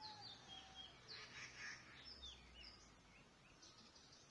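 Small songbirds chirping faintly: a scatter of short chirps and quick downward-sliding notes.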